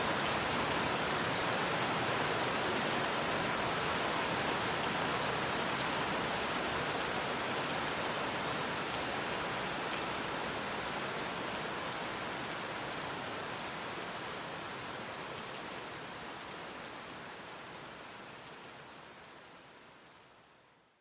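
Steady rain falling on hard surfaces, a dense hiss with faint patter of individual drops. It fades out slowly through the second half and dies away to nothing at the very end.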